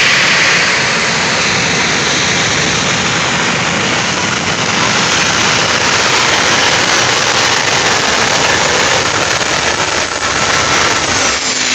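Modified pulling tractor running loud and steady under load on the track, easing slightly after the first couple of seconds.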